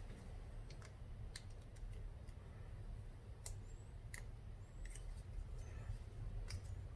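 Scattered light clicks and ticks of small carburetor parts (float, float pin, needle) being handled, over a low steady hum.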